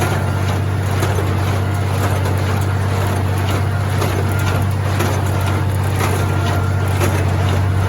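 International Harvester 706 tractor engine running steadily under load, driving a New Holland 273 hay baler through the PTO while baling, heard from the driver's seat.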